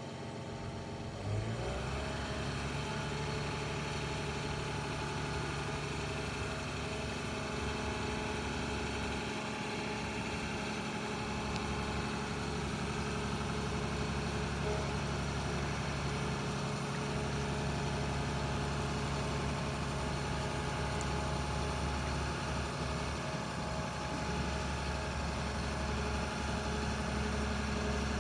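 Heavy diesel engine running, picking up speed and loudness about a second in, then holding a steady pitch.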